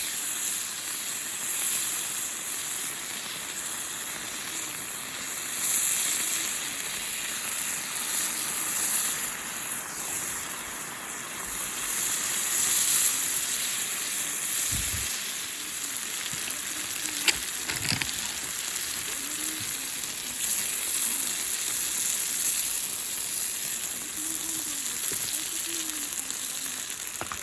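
Food sizzling in a frying pan over a campfire: a steady, dense sizzle, with a single sharp tick about two-thirds of the way through.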